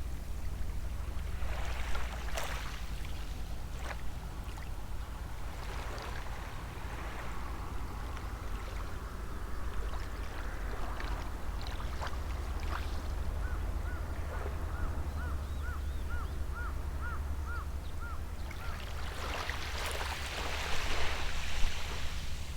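Small sea waves washing onto the shore in gentle surges, the loudest near the end, over a steady low rumble. In the middle a bird gives a run of about ten short, even call notes, roughly two a second.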